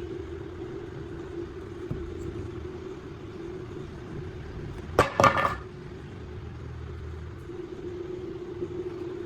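A steady low hum with a quick cluster of sharp knocks, the loudest sound, about five seconds in.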